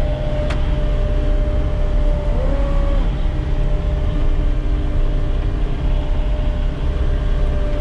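Cat skid steer's diesel engine running at high revs as the machine drives off, a steady heavy rumble with a constant whine over it. About two and a half seconds in, the whine briefly dips and rises again in pitch.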